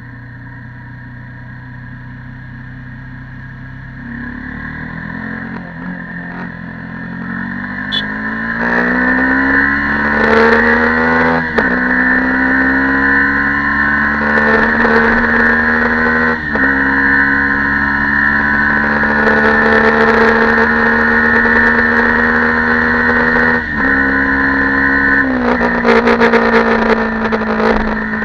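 Stock Yamaha YZF-R15 V2.0's single-cylinder engine accelerating, its pitch rising for several seconds, then short dips at gear changes about 12, 16 and 24 seconds in, between stretches of steady cruising.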